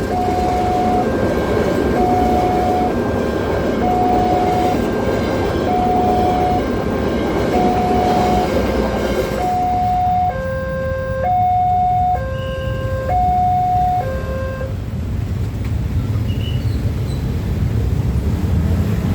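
Level-crossing warning alarm: an electronic tone beeping in steady pulses about once a second, which switches about ten seconds in to a two-tone high-low alternation and stops some four seconds later. A steady low rumble of passing rail or road traffic runs underneath.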